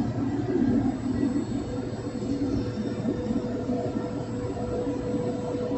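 A homemade jet engine running steadily on test: a dense, even rumble with a constant whine.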